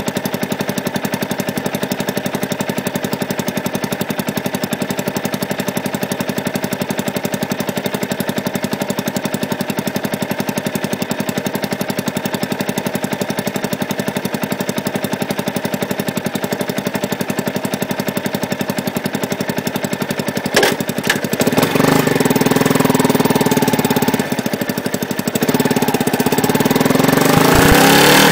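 Yamaha YZF-R125's single-cylinder four-stroke engine, anti-pollution system removed and exhaust modified, idling with a fast, even beat, heard from a microphone mounted under the bike. About 21 seconds in it gets louder as the revs come up, and near the end the revs rise as the bike pulls away.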